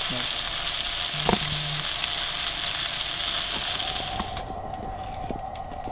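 Breaded elk cutlets frying in vegetable oil on a camp stove, a steady hissing sizzle that cuts off suddenly about four seconds in. A few light clicks of forks on plates sound over it.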